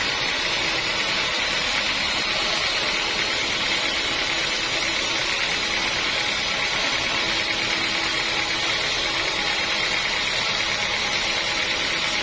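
Sawmill machinery running steadily: a continuous, even mechanical noise with a strong high hiss.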